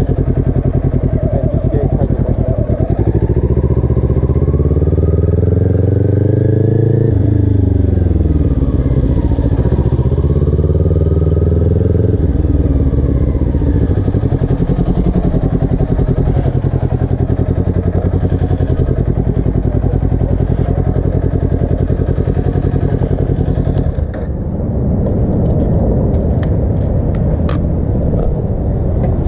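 Motorcycle engine pulling away. It rises in pitch, drops sharply at a gear change about seven seconds in, rises again, then runs steadily. About 24 seconds in, the steady note gives way to a rougher, noisier rumble.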